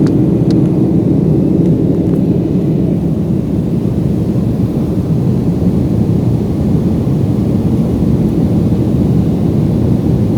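Aircraft in flight heard from on board: a loud, steady low drone of engine and airflow noise.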